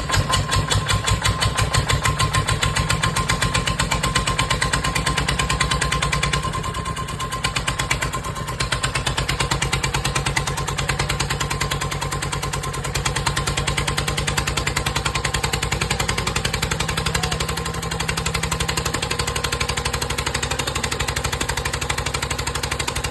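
An engine idling with an even, rapid pulsing beat. The beat eases briefly about seven seconds in, then carries on steadily.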